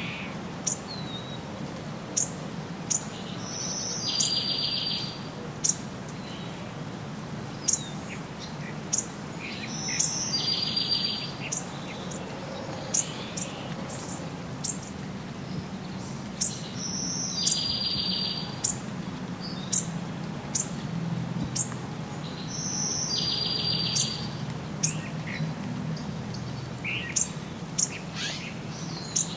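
Birds calling, with many short sharp high chirps. One bird repeats a song about every six seconds: a high note followed by a buzzy trill about a second long.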